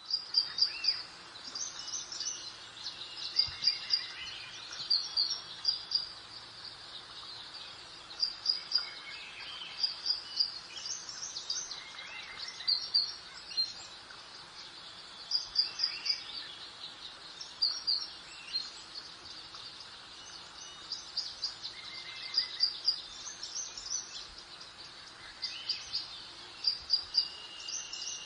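Songbirds chirping in short runs of quick high notes, repeating every second or two, over a steady soft background noise.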